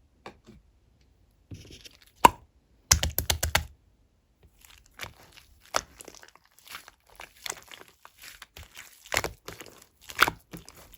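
Clear slime being pressed and stretched by hand, giving sharp clicks as air pockets pop. There is one loud snap about two seconds in, a quick run of clicks just after, then an uneven patter of small pops and crackles.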